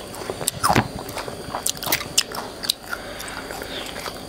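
Biting into and chewing crispy fried chicken: a run of irregular sharp crunches and crackles from the batter.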